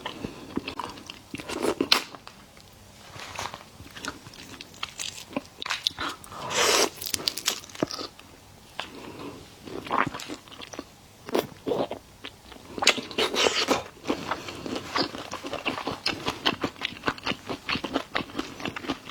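Close-miked mouth sounds of a person eating seafood: wet biting, chewing and smacking with many small clicks. Louder bites or slurps come about seven seconds in and again about thirteen seconds in.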